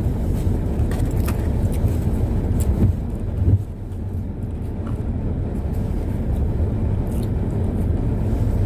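Steady low rumble of a car driving, heard from inside the cabin, with a brief louder bump about three and a half seconds in.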